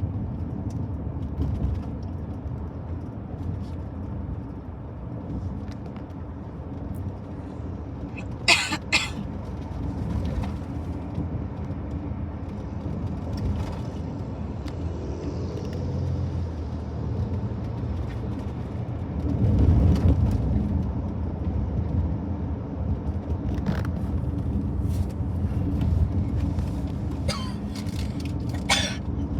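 Steady low road rumble of a car driving, heard from inside the cabin. Two sharp knocks about a third of the way in and two more near the end.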